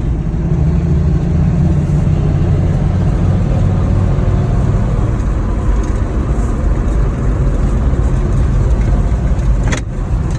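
Old Ford F-Series pickup's engine running steadily as the truck drives, with a short drop in level just before the end.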